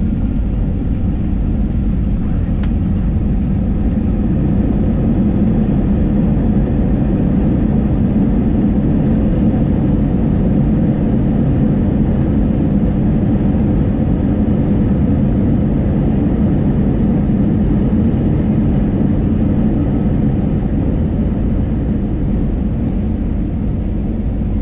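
Steady engine and airflow noise of an airliner heard from inside the passenger cabin, even and unbroken, with most of the sound low-pitched.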